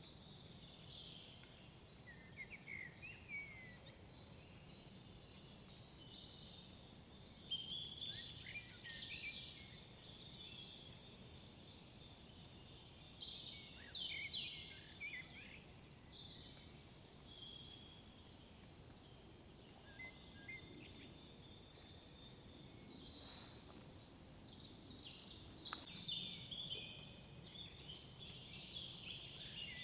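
Songbirds singing in woodland, several high phrases every few seconds, some ending in a quick rising trill, over a faint steady low rumble.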